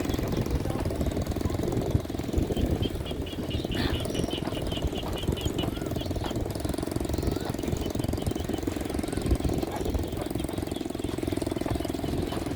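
Small motorbike engine running steadily. A quick series of high ticks sounds for a few seconds, starting about two seconds in.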